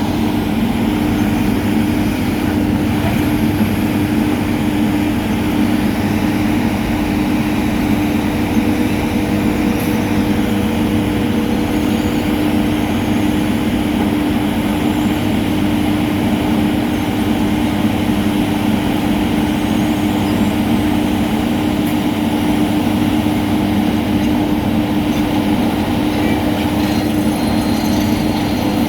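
Heavy diesel road-paving machinery running steadily, a constant engine hum over dense mechanical rumble with no let-up.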